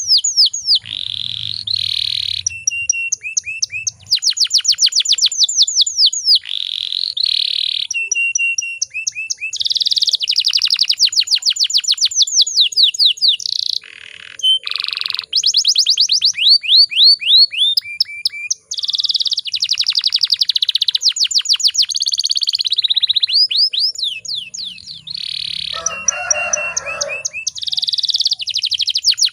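Domestic canary singing a long, fast song: rapid trills of quickly repeated notes and rolls, broken by short pauses.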